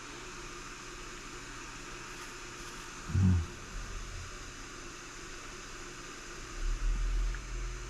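Steady background hiss, with a short low thump about three seconds in and a low rumble starting near the end.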